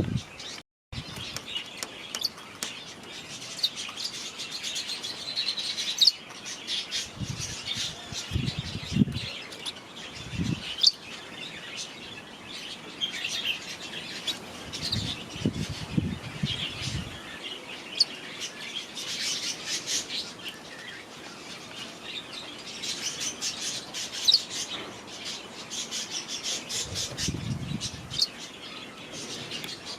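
Small aviary birds chirping and chattering continuously, many short high calls overlapping, with a few low thuds here and there.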